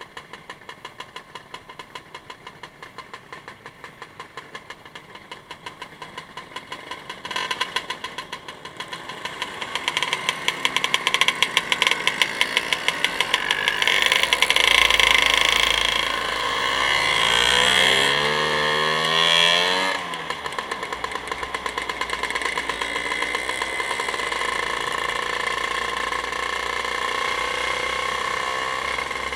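Motor vehicle engine running with an even pulse, growing louder a few seconds in, its pitch rising and falling for several seconds in the middle, then settling to a steadier note.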